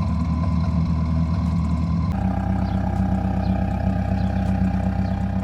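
Subaru WRX's FA20 2.0-litre turbocharged flat-four running steadily. The engine note changes abruptly about two seconds in, as at a cut between two clips.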